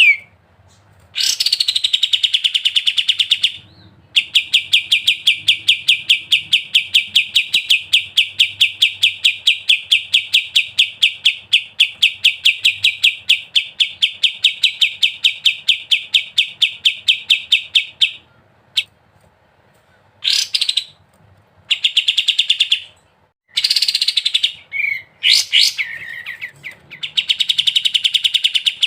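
Kapas tembak songbird singing its rapid 'ngebren' trill: long runs of sharp, evenly repeated notes at about eight a second. The longest run lasts some fourteen seconds; after it come short pauses and a few brief phrases before the trill resumes near the end.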